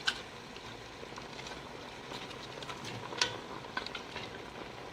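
Pot of beef shank soup (bulalo) boiling steadily, with a few light clicks and taps, the sharpest about three seconds in.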